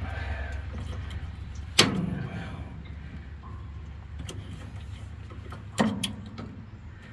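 Two sharp knocks about four seconds apart, the second followed closely by a smaller one, over a low steady rumble that slowly fades.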